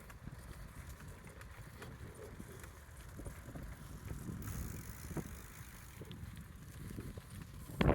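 Bicycle riding along a gravel greenway: a steady low rumble of tyres and wind on the microphone, with small scattered clicks and a sharp knock right at the end.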